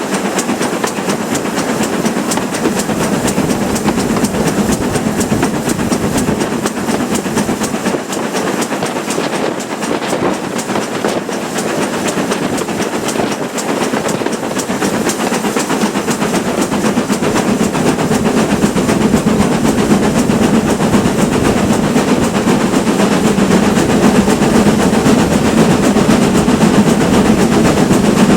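Steam train hauled by GWR Manor-class locomotives running along the line: a steady clatter of wheels on the rails with steam hiss, growing louder over the last third.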